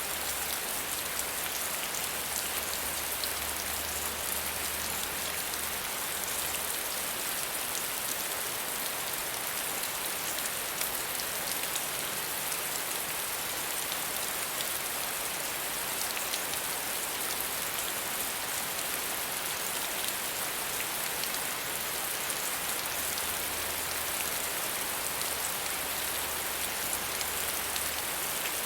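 Soft, steady rain falling: an even hiss sprinkled with the fine patter of drops striking a surface.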